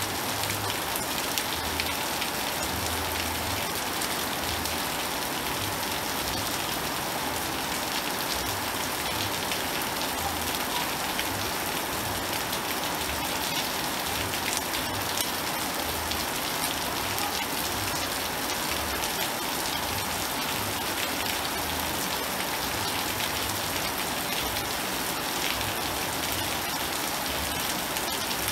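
Heavy rain pouring steadily onto a wet concrete balcony floor and the leaves of the trees beyond: a dense, even hiss speckled with countless small drop splashes.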